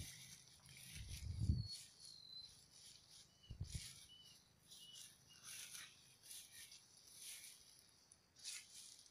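Faint outdoor sound of a small bird giving short high chirps, with recurring rustling and two low thumps, the louder about one and a half seconds in.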